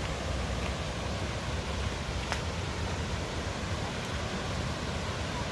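Steady outdoor rushing noise with a low rumble, and a faint click about two seconds in.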